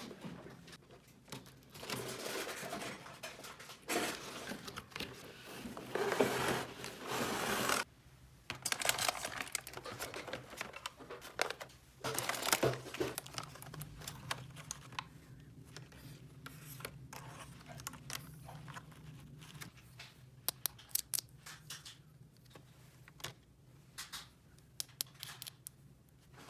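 Toy packaging being torn open and crinkled in stretches of rustling, then light scattered clicks and taps of small plastic pieces being handled.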